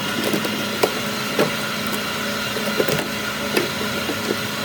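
Workshop noise with a steady hum, broken by scattered sharp knocks and clinks of tools on metal engine parts.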